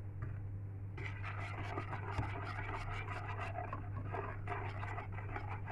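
A utensil stirring flour into a wet batter in a bowl: rapid, irregular scraping and clicking against the bowl, starting about a second in.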